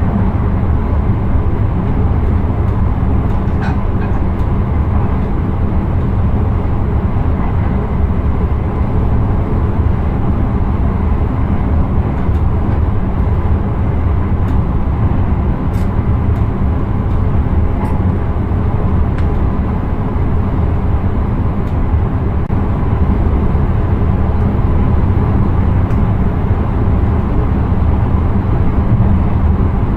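Intercity train running steadily along the track, heard from inside the driver's cab: a continuous low rumble of wheels and running gear with a few faint ticks.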